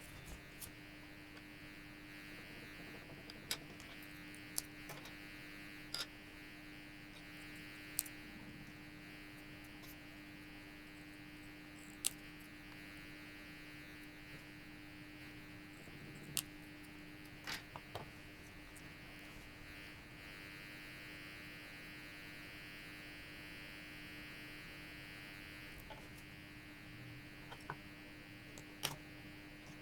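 Steady low electrical hum with a faint hiss, broken by scattered light clicks and taps from hands working small craft materials such as a pearl chain.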